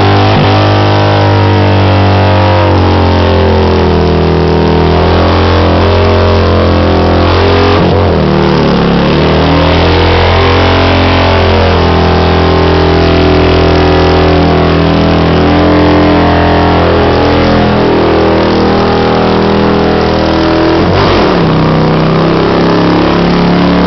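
Harley-Davidson motorcycle's V-twin engine held at high revs during a burnout, with a hiss of tyre noise over it. The revs sag and climb back about eight seconds in and again near the end.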